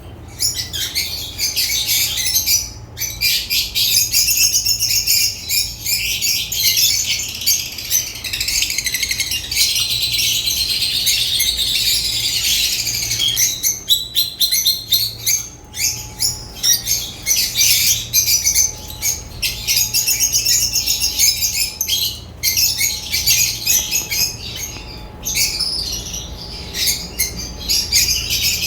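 African lovebirds chirping and chattering continuously in rapid high-pitched bursts, with a few short pauses, over a faint steady hum.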